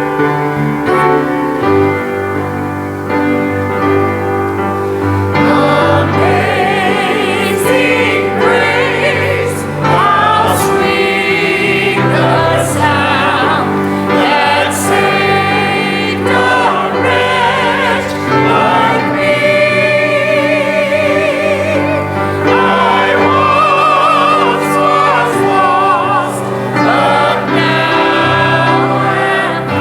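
Voices singing a gospel hymn to piano accompaniment. The piano plays alone at first, and the singing comes in about five seconds in.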